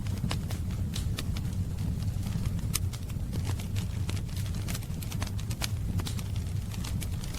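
Wood fire in a fireplace crackling: irregular sharp pops and snaps, a few a second, over a steady low rumble of burning.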